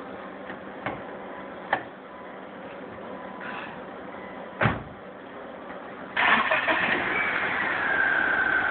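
A car door shuts with a single thud about halfway through, and about a second and a half later the 1996 BMW Z3's engine cranks and starts, then keeps running.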